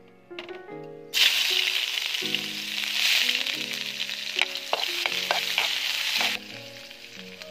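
Sliced shallots, ginger and garlic frying in hot cooking oil in a wok: a loud sizzle that starts suddenly about a second in and drops away sharply near the end. A few clinks of a metal spatula stirring against the pan come in the middle, over light background music.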